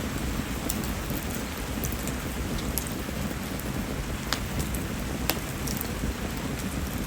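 Steady rain falling around a burning fire of mayumi (spindle tree) firewood, with a few sharp ticks scattered through it; this wood burns hot and barely crackles.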